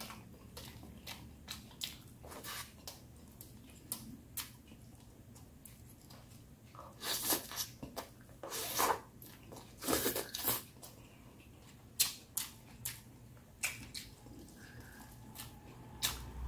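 A man chewing mouthfuls of rice and leafy greens eaten by hand, heard close up: scattered short clicks and brief mouth noises, busiest from about seven to eleven seconds in.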